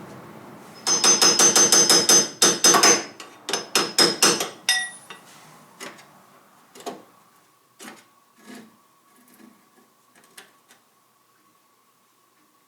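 Two quick runs of hammer blows on metal, about five a second with a ringing note, then a few scattered lighter knocks and taps, during reassembly of a Bobcat skid steer loader's hydraulics.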